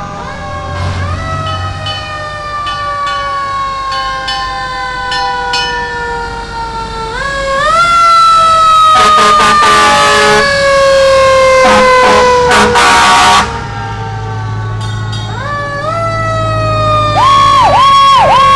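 Fire engine sirens wind up in pitch and then slowly fall, three times over. Loud air-horn blasts come in the middle, and near the end a siren switches to a fast repeating warble.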